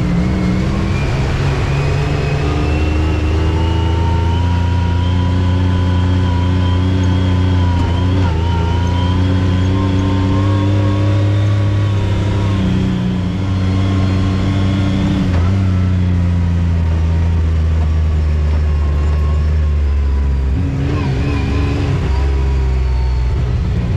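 Off-road vehicle engine running under load on a trail. Its pitch climbs slowly for the first ten seconds or so, then eases off and drops twice in the second half as the speed changes.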